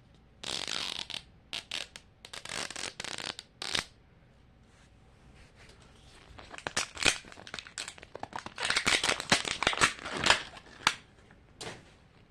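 Thin plastic wrapper of a Mini Brands capsule being torn open and crinkled by hand, in irregular crackling bursts. The handling is busiest and loudest in the second half.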